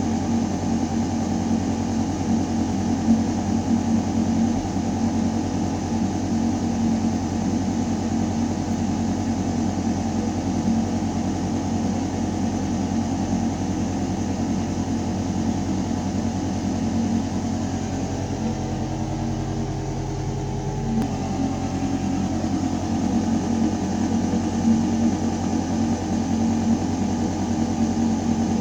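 Building ventilation system humming steadily: air rushing through metal ductwork over a low mechanical drone with several steady tones. A little past the middle, the deepest part of the hum swells for a few seconds while the higher tones dip, then it settles back.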